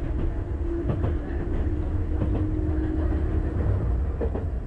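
Enoden electric train running, heard from inside the carriage: a steady low rumble with a held hum that stops about three and a half seconds in, and a few clicks from the wheels on the track.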